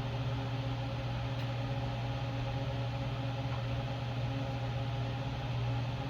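Steady low machine hum, as of a running fan or motor, with a couple of faint clicks.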